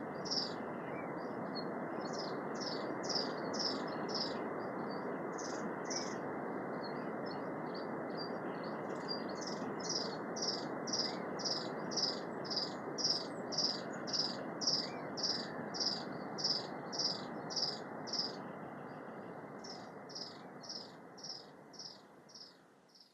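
Native-forest ambience: rapid, high chirps repeating about twice a second, with a few short pauses, over a steady rushing noise; it all fades out near the end.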